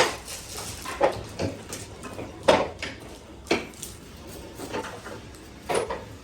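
Metal clattering: six or seven sharp knocks at irregular intervals, the loudest about two and a half seconds in, like metal parts being handled and set down.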